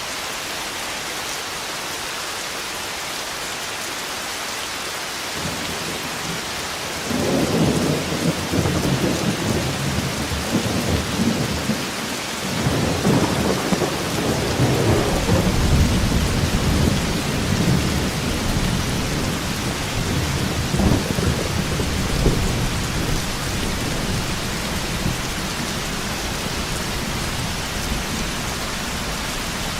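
Steady heavy rain with a long peal of rolling thunder. The thunder builds about five seconds in, cracks louder about seven and again about twelve seconds in, rumbles on for well over ten seconds, then dies back under the rain near the end.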